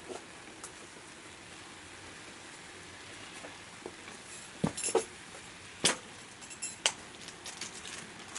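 Small wood fire of chopsticks, pellets and scrap wood crackling in a secondary-combustion wood stove: scattered sharp pops and ticks, a cluster of louder ones from about four and a half to seven seconds in, over a faint steady hiss.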